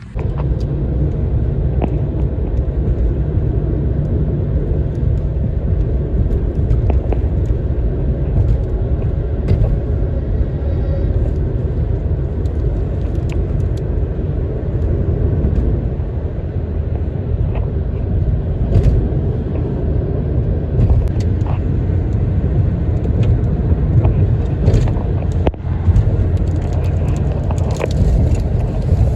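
Steady low rumble of motor traffic, vehicles running on a multi-lane highway, with a few faint clicks.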